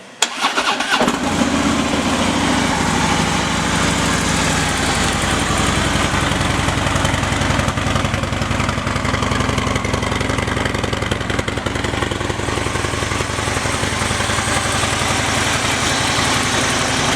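2016 Harley-Davidson Street Glide Special's 103 cubic inch V-twin with a Screamin' Eagle exhaust starting up. It catches about a second in, runs a little faster for a few seconds, then settles to a steady idle.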